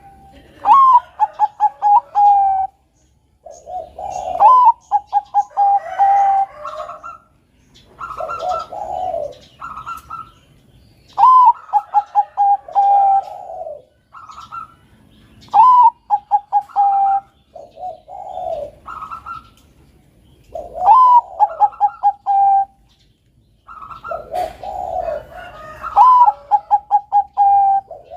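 Perkutut bangkok (zebra dove) singing its cooing song in repeated phrases about every four to five seconds. Each phrase is a rising note, a quick run of short clipped notes, then a lower drawn-out coo.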